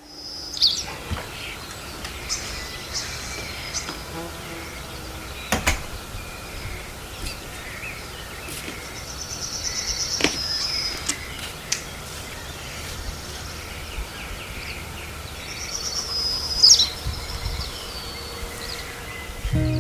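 Outdoor ambience of birds chirping in short trilled phrases a few times over a steady background hiss, with one sharp click about five and a half seconds in.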